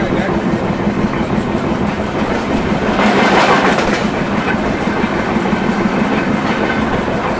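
Passenger train running along the track, heard from inside the coach: a steady rumble of wheels on rails that swells into a louder rush about three seconds in.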